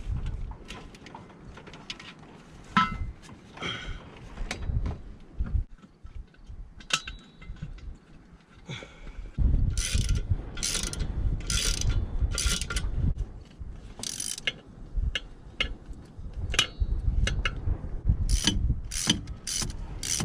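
Hand ratchet clicking in short runs of strokes as a fastener is worked, with scattered clunks and knocks of tools and parts.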